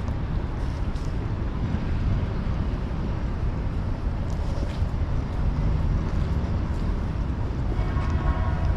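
Railway station ambience: a steady low rumble with a haze of background noise and a few faint clicks. A faint pitched sound comes in near the end.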